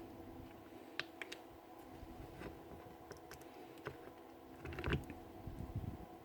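Faint scattered clicks and light knocks of small parts from a stripped-down SDS drill's hammer mechanism being handled on the bench, with a small cluster of knocks about five seconds in.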